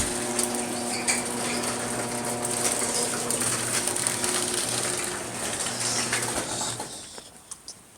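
Electric garage door opener running: a steady motor hum with a mechanical rattle, which stops about seven seconds in as the door finishes opening.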